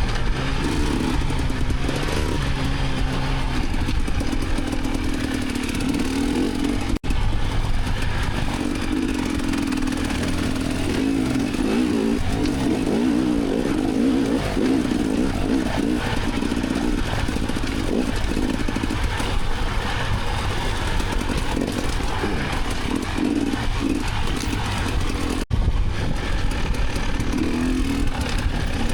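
Enduro dirt bike engine being ridden hard, the revs rising and falling continually as the throttle is worked. The sound cuts out abruptly twice, about seven seconds in and near the end.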